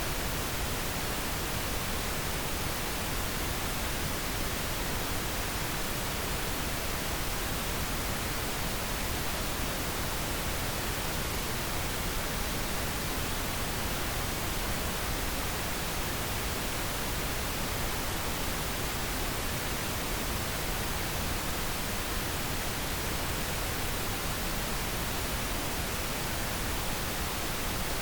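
Steady synthetic pink noise: an even, unchanging hiss spread across the whole range, with no changes or events.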